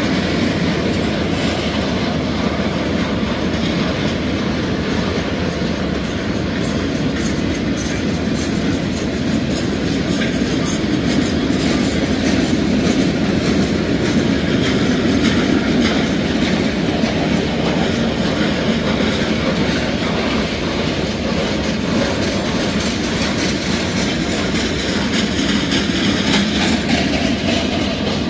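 Freight cars of a Norfolk Southern manifest train rolling steadily past, the wheels rumbling on the rails with a clickety-clack over the joints.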